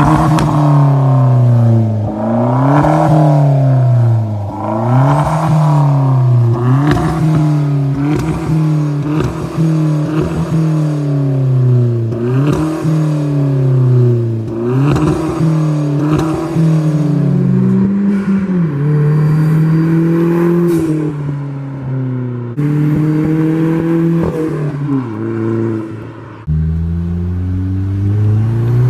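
Hyundai Genesis Coupe 2.0T's turbocharged four-cylinder, straight through a muffler-deleted, secondary-cat-deleted exhaust, revved repeatedly, its pitch rising and falling every couple of seconds. In the second half it comes in longer climbs in pitch under acceleration, broken twice by abrupt cuts.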